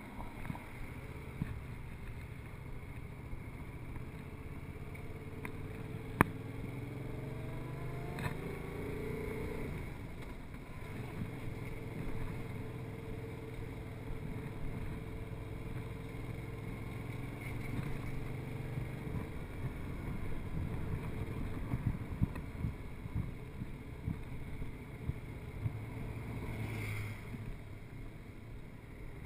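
Yamaha MT-07's 689 cc parallel-twin engine running at low town speed, its revs climbing as it pulls away about six to nine seconds in, then settling into a steady low hum. A single sharp click about six seconds in.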